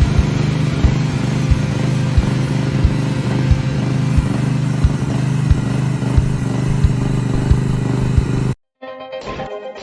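Engine of a 13.5 hp mini crawler excavator running steadily, with a regular knock about every two-thirds of a second. The engine sound cuts off suddenly near the end, and after a short silence music starts.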